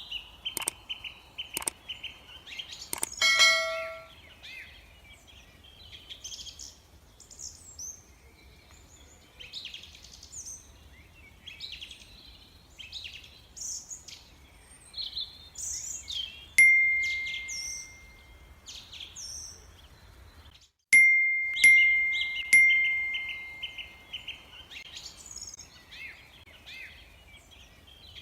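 Many songbirds chirping and singing in a busy chorus, with a few clicks near the start and several bell-like dings that ring out and fade, the loudest about halfway through and in a cluster a few seconds later.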